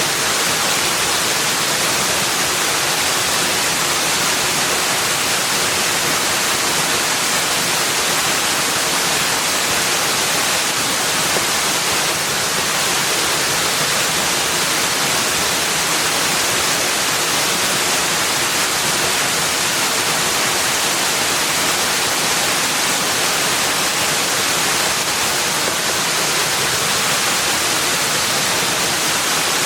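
Steady, unchanging rushing water, a dense hiss strongest in the high end with no distinct splashes, calls or other events.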